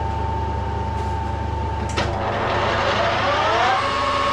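A metal lathe switched on about two seconds in, with a click and then a motor whine that rises in pitch as the spindle spins up and then holds steady.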